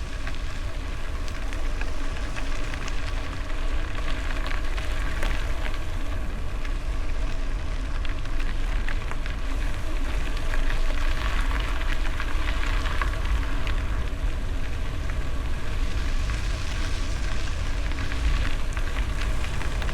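Bicycle tyres crackling over gravel with wind rumbling on the microphone while riding.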